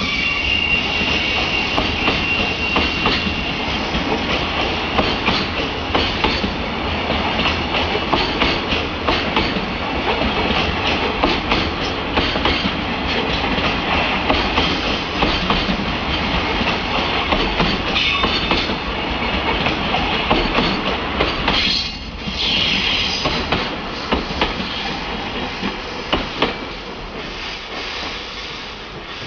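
JR Freight container freight train rolling past, its wagon wheels clattering over the rail joints, with a thin high squeal in the first few seconds. The clatter fades away near the end as the train moves off.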